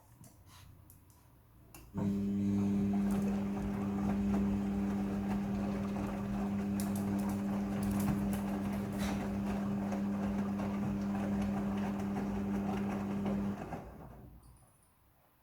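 Midea front-loading washing machine running: a steady electric motor hum over a noisy whir, starting abruptly about two seconds in after a few light clicks, and dying away near the end.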